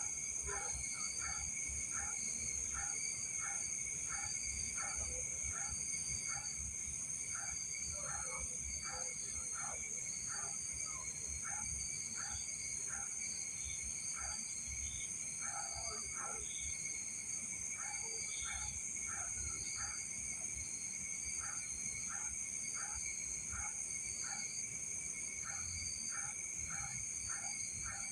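Night insect chorus: several steady high trills, with short chirping calls repeating about twice a second.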